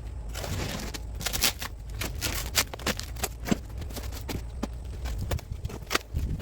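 Irregular knocks, taps and rustling as a cardboard shipping box holding a bicycle frame is handled and opened.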